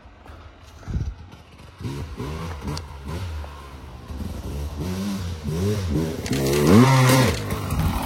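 Dirt bike engine revving up and down repeatedly as it climbs a slope, growing louder as it comes closer, loudest near the end.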